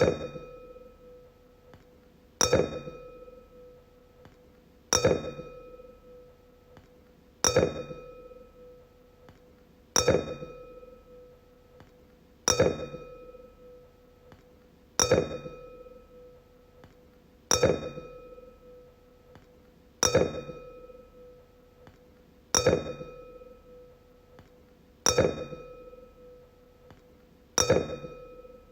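A wine glass struck over and over, about once every two and a half seconds: each sharp tap rings on as a clear tone that dies away over a second or two.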